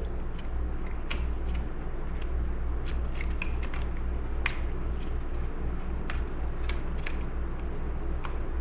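Scattered light clicks and taps of hand tools and small metal and plastic chainsaw parts being handled during disassembly, with a sharper click about four and a half seconds in, over a steady low hum.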